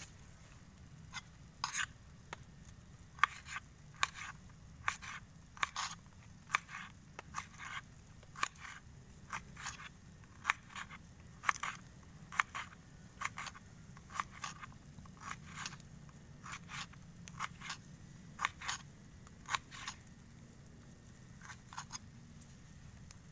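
Short crisp crunching or cutting strokes, repeated irregularly about one or two a second, over a steady low rumble.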